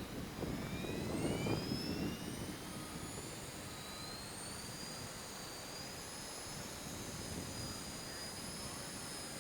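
Whine of a Durafly Tundra RC plane's electric motor and propeller in flight, rising in pitch over the first few seconds and then holding steady. Wind buffets the microphone in the first couple of seconds.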